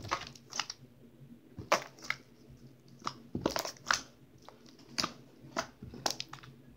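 Homemade slime handled close to the microphone: about a dozen sharp, irregular pops and crackles as it is squeezed and pulled.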